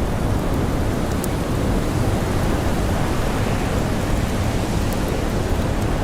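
Blizzard wind blowing steadily: a dense, low rushing noise with no distinct howl. A few faint, sharp crackles from a campfire come through, about a second in and near the end.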